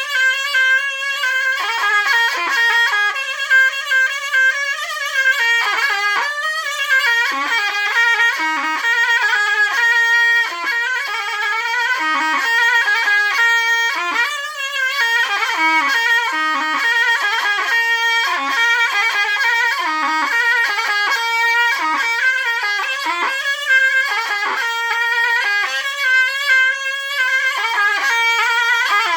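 Zurna playing a continuous, heavily ornamented folk melody, with quick trills and wavering held notes and no breaks.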